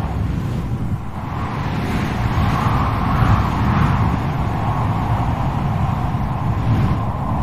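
Strong wind blowing, with a low rumble and a howling whistle that swells and fades.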